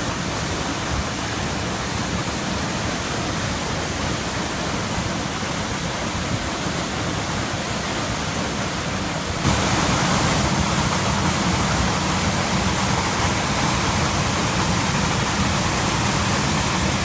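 Waterfall's rushing water: a steady, even roar that becomes louder and brighter about halfway through.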